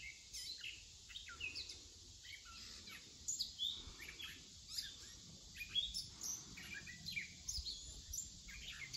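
Songbirds chirping and calling: many short chirps and quick rising and falling whistles over a steady faint hiss.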